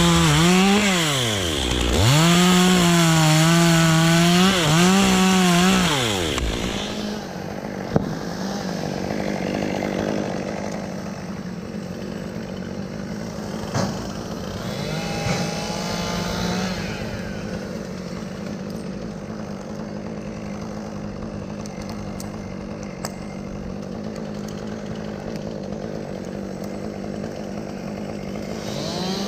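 Chainsaw cutting wood, the engine running at high revs and dropping low twice. About six seconds in it falls back to a quieter, steadier running, with one brief rev about halfway through.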